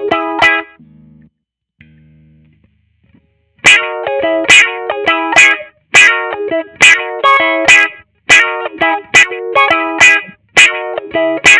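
Squier Vintage Modified Jaguar electric guitar strumming chords in sharp, rhythmic strokes about half a second apart. The playing stops for about three seconds about a second in, then resumes.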